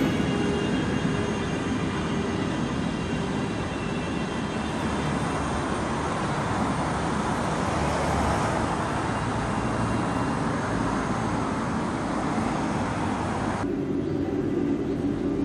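Steady rumble of a locomotive-hauled double-deck regional train rolling away over the railway bridge, blended with road traffic noise from the street below. About 13.5 seconds in the sound cuts abruptly to a lower, quieter steady rumble.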